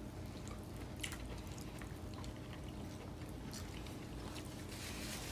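Quiet eating sounds over a steady room hum: soft chewing with a few faint light clicks, the clearest about a second in.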